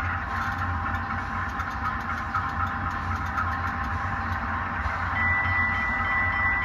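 HO scale model locomotives' LokSound V5 sound decoders playing the diesel sound of a GE 12-cylinder prime mover, running steadily over a constant low hum. A steady high tone comes in about five seconds in.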